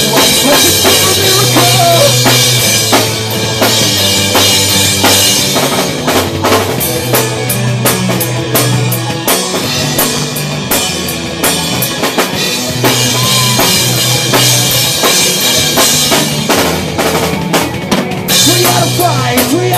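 Live rock band playing an instrumental passage with no singing, the drum kit prominent over sustained low bass notes.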